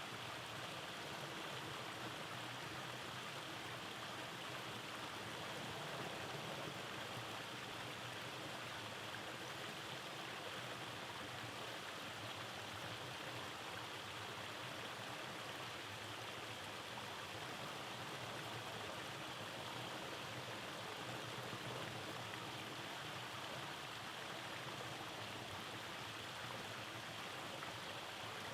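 Rainforest stream running over rocks and small cascades: a steady, even rush of water.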